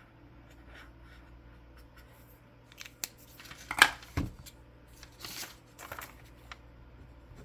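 Colouring supplies being handled on a desk: scattered small clicks, one sharper click followed by a low knock about four seconds in, then a few short scratchy strokes of colouring on paper.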